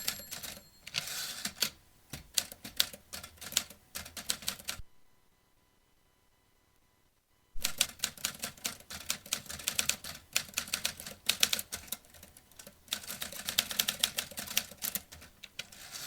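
Vintage manual typewriter being typed on, a rapid run of key strikes clacking against the platen. The typing stops a little under five seconds in, pauses for nearly three seconds, then resumes as another fast burst of keystrokes.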